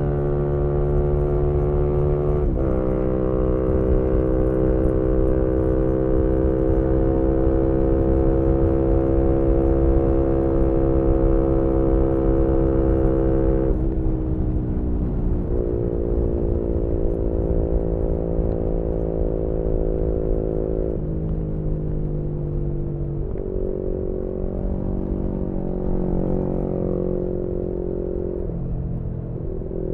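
2018 Yamaha MT-125's single-cylinder 125 cc engine through a GPR aftermarket exhaust, heard onboard under way. It holds steady revs for a long stretch, the revs fall about halfway through, and the pitch then steps up and down several times with gear changes and throttle. A low rumble of wind noise runs underneath.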